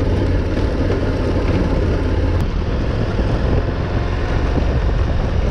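Adventure motorcycle engine running steadily at low speed on a rocky mountain trail climb.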